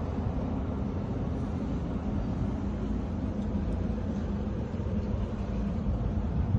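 A steady low mechanical drone with a constant hum, as from a running motor or engine.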